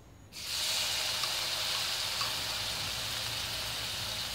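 Onion paste dropped into hot oil starts sizzling about half a second in, then keeps up a steady hiss.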